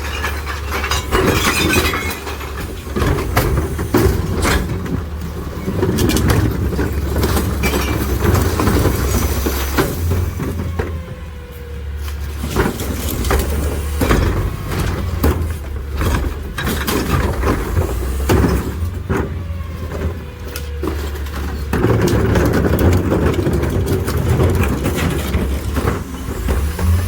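McNeilus rear-loader garbage truck packing recycling: the truck's diesel engine running under hydraulic load while the packer blade crushes the load, with repeated cracking and clattering of glass and other recyclables. It eases off briefly partway through and grows louder again near the end.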